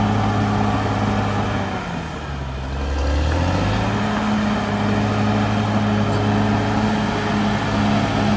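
Caterpillar D6R XL bulldozer's diesel engine running steadily; about two seconds in the engine speed sags for a second or so, then picks back up to its working pitch.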